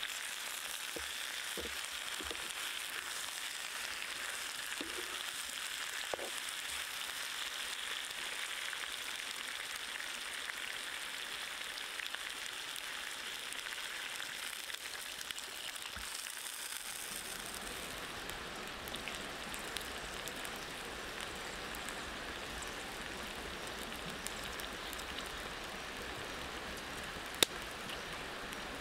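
Crocodile meat and vegetables sizzling in a wok, with a few scrapes of the stirring utensil early on. After water is poured in, a little past halfway, the high sizzle gives way to the lower, steady bubbling of the simmering broth, with one sharp tick near the end.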